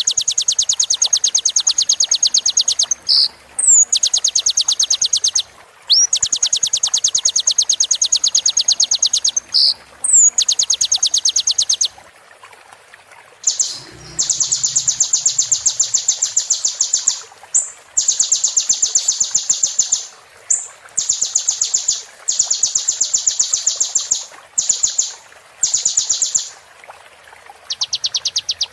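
Sunbird song: long, very rapid high trills, each lasting a couple of seconds, repeated with short breaks, some opening with a quick rising whistle, over a steady faint hiss.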